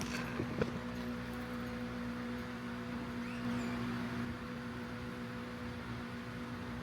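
Steady low electrical hum over a faint hiss of room noise, with a few light clicks in the first second.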